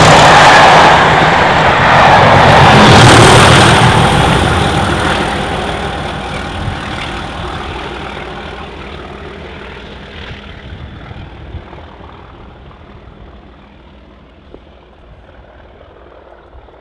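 Test train top-and-tailed by Class 31 and Class 37 diesel locomotives passing: diesel engine noise and wheels on the rails are loud for the first few seconds as the rear locomotive goes by, then fade steadily as the train runs off into the distance.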